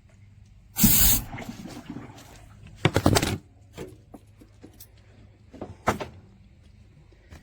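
Water and air sputtering through a water heater flush tool and drain hose while sediment is flushed out. There are three loud surges: the loudest about a second in, another about three seconds in, and a shorter one near six seconds.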